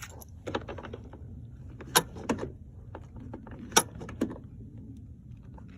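Several sharp clicks and knocks with light jangling between them, the two loudest about two seconds and nearly four seconds in, over a steady low hum.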